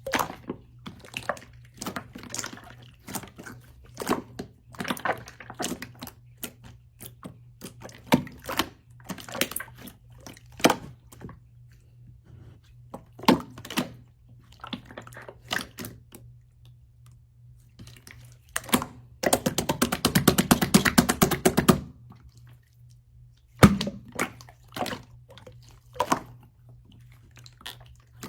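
Slime being squished and stretched by hand, giving scattered wet clicks and pops, with a run of fast, dense crackling for about three seconds around two-thirds of the way in. A faint steady low hum runs underneath.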